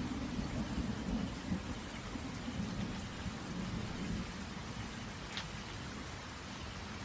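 Steady rain falling on a tent, with a low rumble of thunder that fades away over the first few seconds. A single sharper drip lands about five seconds in.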